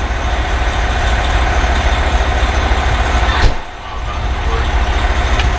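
Fire engine's Detroit Series 60 diesel engine running with a steady low rumble. A sharp knock comes about three and a half seconds in, followed by a brief drop in the noise.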